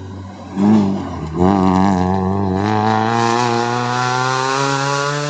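Rally car engine revving hard: a short blip about half a second in, a brief lift, then a long pull with the pitch climbing slowly and steadily as the car accelerates.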